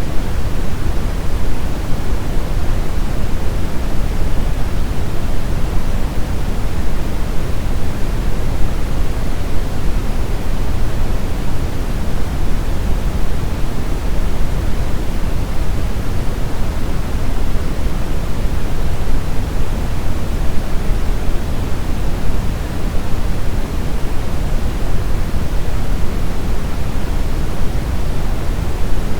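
Steady synthetic brown noise: an even, deep rushing hiss weighted heavily toward the low end, with no changes or events.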